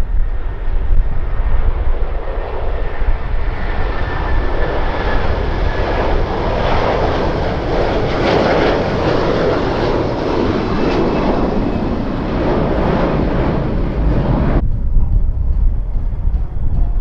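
Jet airliner passing by, its engine roar swelling to a peak about halfway through, with a faint turbine whine falling in pitch. Low wind rumble on the microphone runs underneath. The jet noise cuts off abruptly near the end, leaving only the low rumble.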